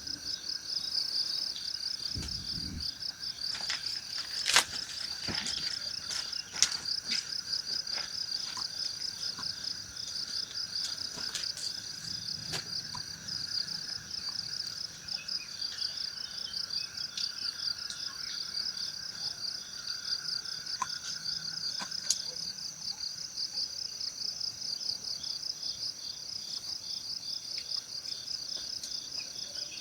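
Insects, such as crickets, chirring continuously in a fast, steady pulse, with a few sharp clicks or snaps scattered through.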